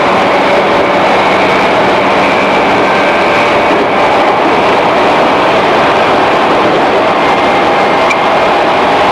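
Steady running noise of a 211 series electric train heard from inside its motor car: wheels rolling on the rails and the motors and gears running, with a faint steady whine over the noise.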